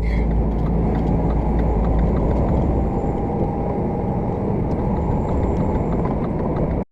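Steady road and engine noise from a moving car, heard from inside the vehicle. It cuts off abruptly near the end.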